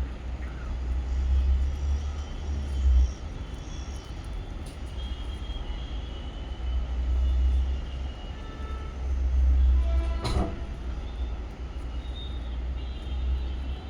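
Wind rumbling on the microphone in uneven gusts, with faint high bird chirps over it and one sharp knock about ten seconds in.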